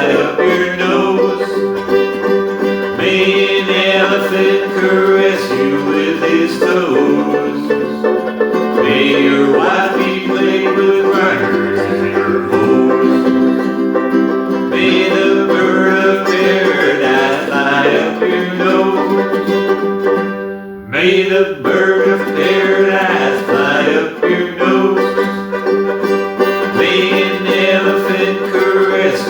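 Ukulele strummed in a bright, country-style rhythm, playing the song through with a brief drop in level about two-thirds of the way in.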